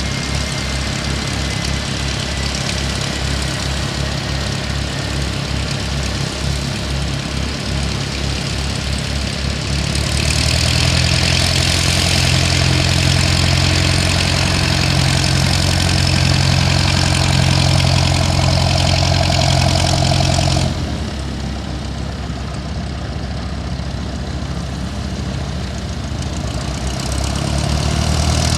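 Engine noise with a steady, evenly pulsing low hum. About ten seconds in, a loud high hiss joins and the sound grows louder, then cuts off abruptly about twenty seconds in; it swells again near the end.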